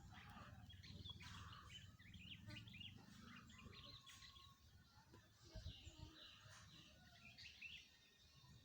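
Sooty-headed bulbul (kutilang) calling faintly in short, quick chirps over a steady low background rumble, with a couple of low thumps about halfway through.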